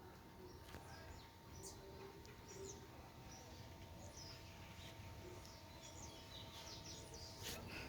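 Faint wild birds chirping now and then, short high calls scattered over a quiet, steady outdoor background.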